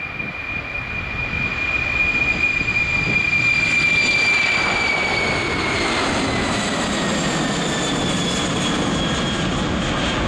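Boeing 747-400's four jet engines at takeoff power: a loud roar building over the first couple of seconds, with a high whine that drops in pitch about halfway through as the plane passes by.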